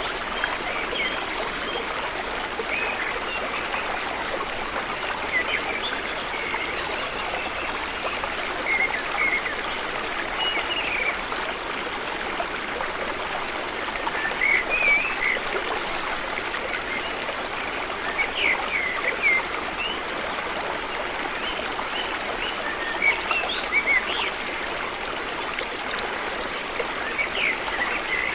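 River water flowing steadily: a continuous rush with irregular bright gurgles and plinks every second or two.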